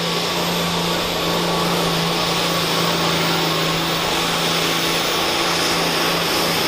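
Pulling tractor's engine running at full throttle under load on a sled pull, a loud steady drone that holds one constant pitch.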